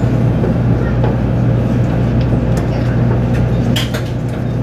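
Cabin noise inside an N700 series Shinkansen carriage arriving at a station: a steady low hum and rumble, with a few short sharp clicks late on.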